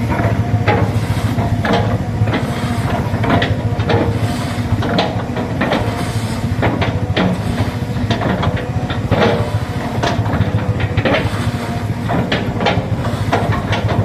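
Hydraulic excavator's diesel engine running steadily under load, with many sharp cracks and knocks as it breaks up an oil palm tree's trunk and fronds.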